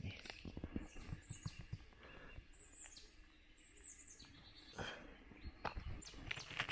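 Small forest birds chirping: short, high notes that drop in pitch, repeated several times, over soft rustles and knocks.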